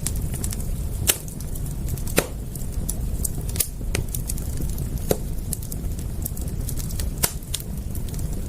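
Wood fire crackling, with sharp pops and snaps over a steady low rumble and a few louder pops spaced a second or more apart.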